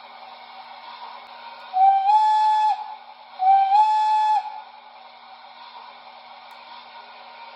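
Model steam locomotive's onboard sound system sounding its steam whistle: two blasts of about a second each with a short gap between them, each stepping up slightly in pitch as it starts. A steady hum runs underneath.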